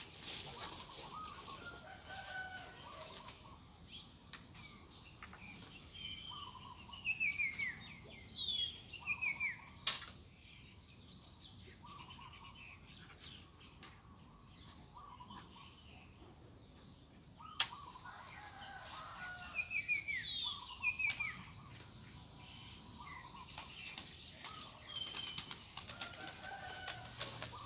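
Birds calling outdoors: two clusters of short falling chirps, with lower cooing phrases that fit spotted doves calling. A single sharp click about ten seconds in.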